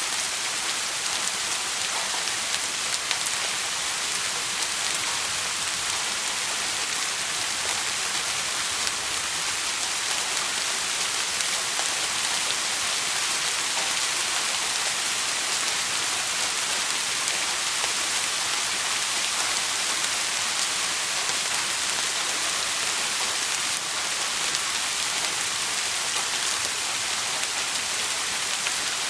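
Steady rain falling: an even, unbroken hiss that holds level throughout.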